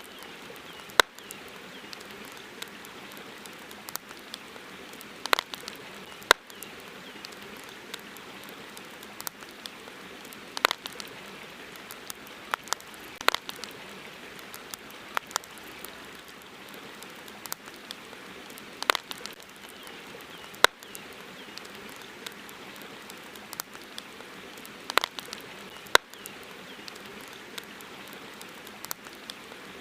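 Campfire wood crackling, with irregular sharp pops and snaps, some much louder than others, over a steady hiss of flowing river water.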